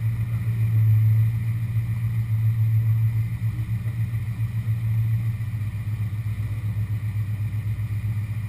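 A car engine running steadily at a low pitch, its sound pulsing quickly in the second half.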